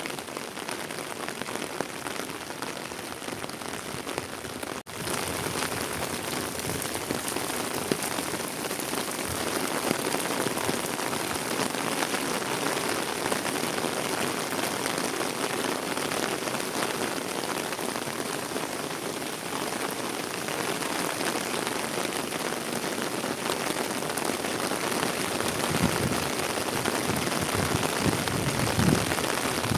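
Heavy rain falling steadily in a dense hiss, with a brief dropout about five seconds in, after which it is a little louder. A few low thuds come near the end.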